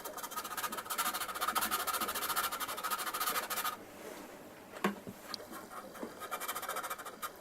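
A hand file rasping quickly back and forth over a plastic model kit's fuselage seam to level a step in the joint. It stops about four seconds in, leaving faint scratching and a single click.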